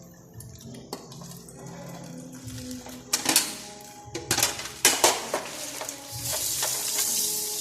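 Dishes and cutlery clattering and clinking as they are handled at a sink, with bunches of sharp clinks about three and five seconds in. Near the end a tap starts running.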